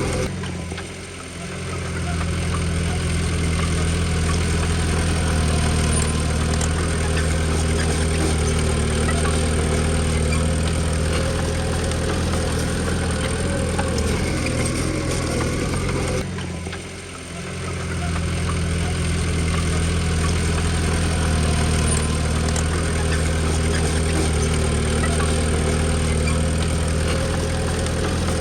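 Komatsu D20P bulldozer's diesel engine running steadily, briefly dropping in loudness twice, about a second in and again about seventeen seconds in.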